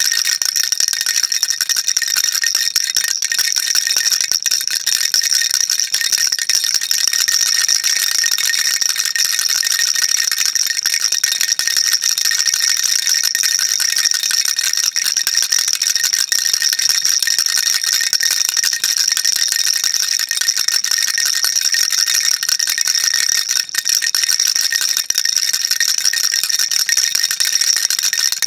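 A baby rattle shaken without a break, a dense, steady, high-pitched rattle.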